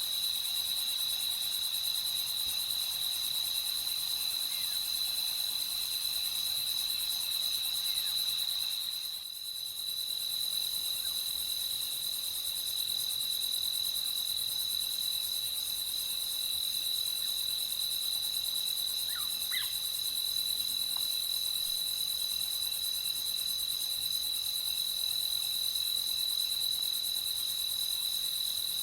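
Crickets chirping in a continuous nighttime chorus, a steady high-pitched trill that dips briefly about nine seconds in. A few faint short calls sound about two-thirds of the way through.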